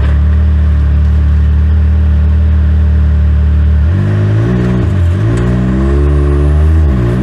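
Side-by-side UTV engine idling steadily, then revved up and down several times from about four seconds in as the machine is eased forward under a spotter's directions.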